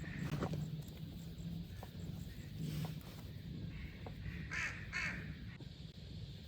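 Two short harsh bird calls about half a second apart, with a few faint knocks beneath.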